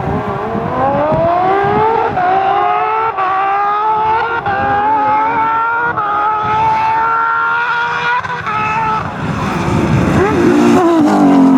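Rally car engine accelerating hard through the gears, its pitch climbing and dropping back briefly at each of several quick upshifts. Near the end it gives way to a lower engine note that falls in pitch.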